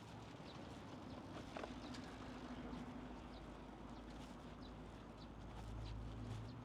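Footsteps walking at a steady pace, about two steps a second, each a short crisp tick, over a steady low background hum.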